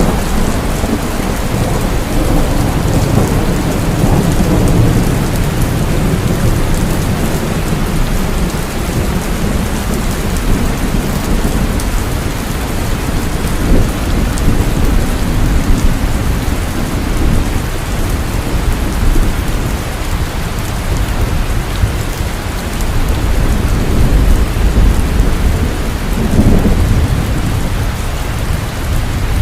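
Heavy rain falling steadily, with low rolling thunder rumbling beneath it and swelling a few times.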